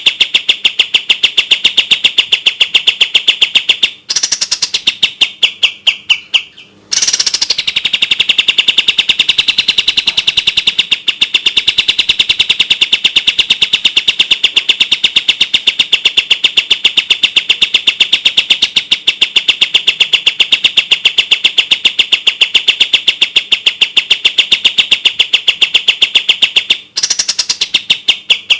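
Kapas tembak bird singing its rapid-fire 'tembak' song: a long, fast, even string of high, sharp notes. About four seconds in it trails off into a softer run and a short pause, then the fast string resumes and carries on until another break near the end.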